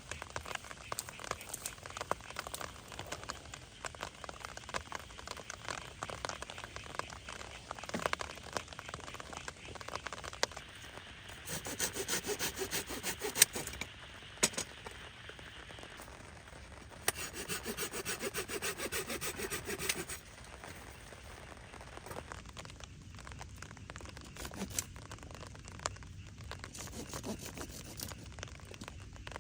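Folding hand saw (Silky GomBoy) cutting through firewood in two bursts of quick back-and-forth strokes, about a third of the way in and again just past the middle. Scattered small clicks and ticks sound between them.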